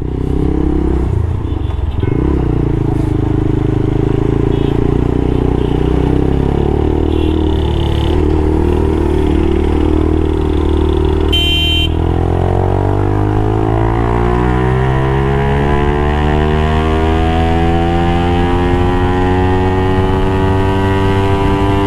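TARO GP1 motorcycle engine under way, running steadily at first. About halfway there is a short horn beep, then the engine note climbs steadily for about ten seconds as the bike accelerates hard in second gear. The rider feels the power comes in jerks and suspects a carburettor problem.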